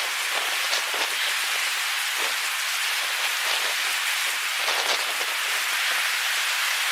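Heavy rain falling steadily, a constant hiss with scattered sharper drop hits close by, from a severe thunderstorm.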